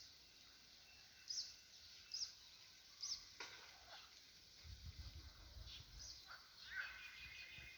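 Faint wild birds chirping: short, high chirps and quick downward-sweeping calls about once a second. A low rumble runs through the second half.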